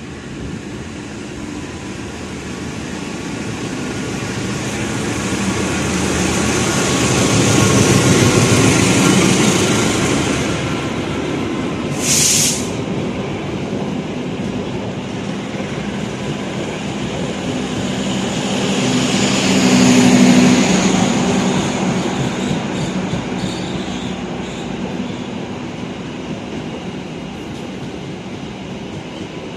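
KA Jayabaya passenger train, hauled by a CC 206 diesel-electric locomotive, passing straight through the station without stopping. The rumble builds to a peak about eight seconds in as the locomotive goes by, then the coaches run past steadily. There is a short sharp high burst about twelve seconds in and another swell around twenty seconds, before it slowly fades.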